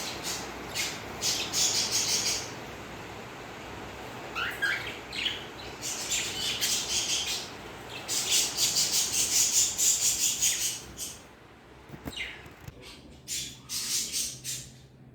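Cockatiels chirping and squawking in repeated runs of short, shrill calls, with the busiest stretch about eight to ten seconds in.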